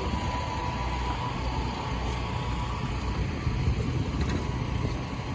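Steady low drone of engines running, with an even noisy hiss over it.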